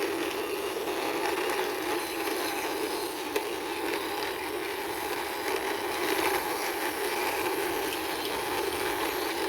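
Wheels of a hand-pushed toy tourist bus rolling steadily along the ground.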